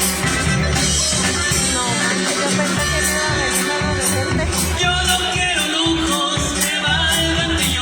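Band playing a Mexican regional song with a sung lead vocal over a steady beat of cymbal strokes and bass.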